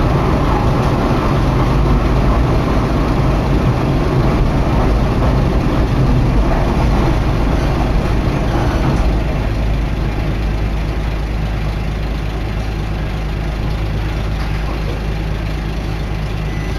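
Running noise inside a diesel railcar: a steady engine drone under the rumble of wheels and rails. It gets somewhat quieter about nine seconds in.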